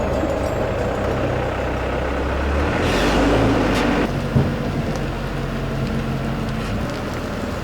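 Truck engine running steadily as the truck is manoeuvred, its note shifting about three seconds in, with two short hisses of air around three and four seconds in.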